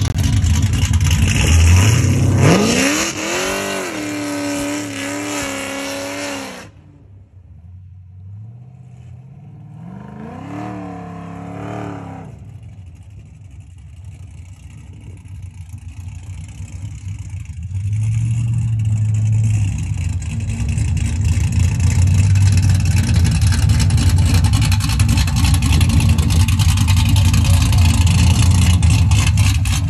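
Two cammed Chevrolet Camaro V8s, a fourth-generation Z28 and a fifth-generation SS, launching from a dig at full throttle, their note rising steeply as they rev out, then dropping away sharply after about six seconds as they pull off. A fainter, distant rev rises again around ten seconds. From about eighteen seconds the two cammed V8s idle loudly close by with a low rumble.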